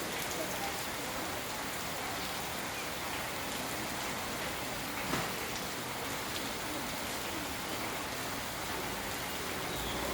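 Steady rain falling and pattering on surfaces, with one sharper drip or tap about five seconds in.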